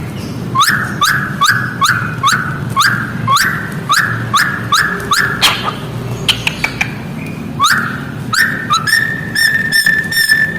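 Cockatiel calling chickens: a string of short rising whistled notes, about two a second, with sharp high chirps among them, ending in one long steady whistle.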